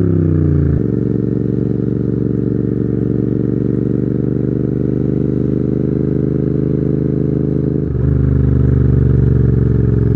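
Royal Enfield Continental GT 650's parallel-twin engine running through aftermarket Red Rooster exhausts while the bike is ridden. The engine note falls at first, then holds steady, and grows louder about eight seconds in as the throttle opens.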